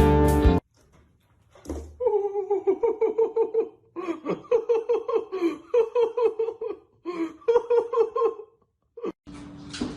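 High-pitched giggling laughter, quick 'ha-ha-ha' pulses in several bursts with short breaks between them.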